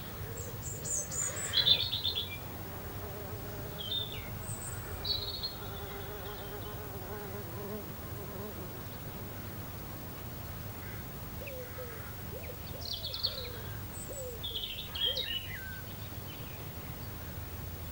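Small garden birds chirping in short scattered bursts, with an insect buzzing for several seconds in the first half.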